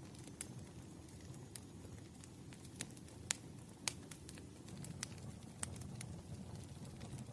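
Burning firewood crackling, with irregular sharp pops over a low steady hiss; two pops stand out about three and four seconds in.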